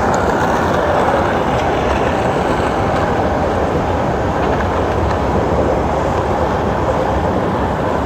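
MRT train running on its track: a loud, steady rumble that swells in just before and holds even.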